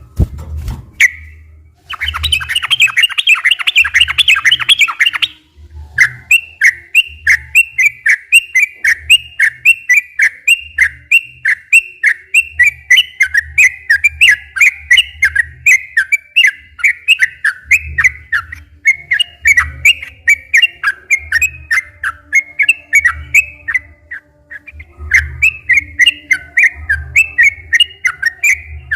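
Yellow-vented bulbul (trucukan) singing its long rapid song: a burst of fast chattering, then a long run of quick repeated liquid notes about three a second, with a short break near the end. A low thumping runs underneath.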